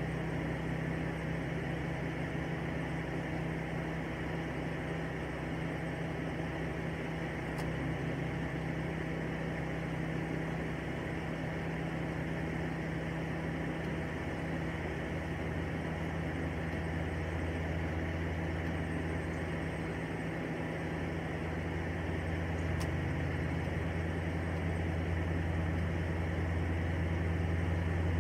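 Ford Mustang engine idling steadily, a low even hum whose bottom note grows a little stronger in the second half.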